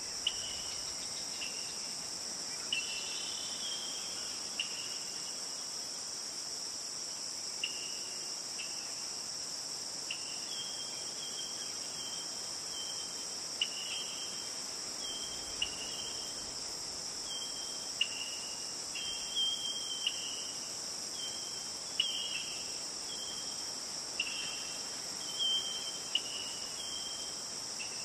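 Steady high-pitched insect chorus, with short separate chirps breaking in every second or two.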